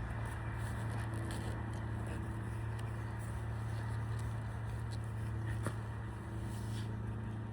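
A steady low hum, with a single faint click about five and a half seconds in.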